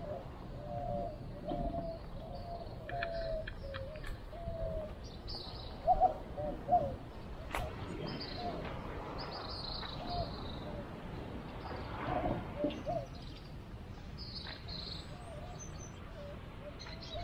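Birds calling in the open: a string of short, low pitched notes repeated about twice a second, with higher chirps over them.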